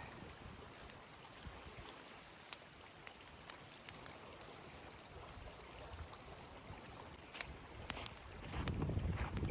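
River stream running steadily, with scattered sharp clicks and taps, and a louder low rumble near the end.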